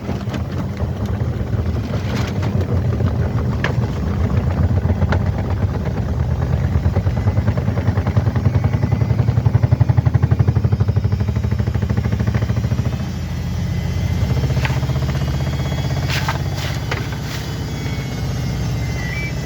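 Washing machine spinning: a loud, fast-pulsing low hum that builds to about ten seconds in and drops back at about thirteen seconds, with a few sharp knocks along the way.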